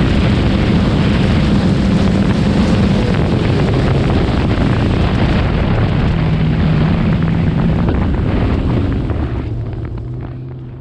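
Supercharged Sea-Doo RXP-X 300 jet ski with a Riva Racing exhaust running hard, its engine note shifting in pitch over a loud rush of wind and water. The sound fades out over the last couple of seconds.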